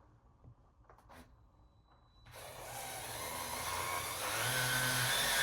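A DeWalt gyroscopic cordless screwdriver starts up about two seconds in and runs, driving a screw, its noise growing louder as it goes. A few faint clicks before it starts.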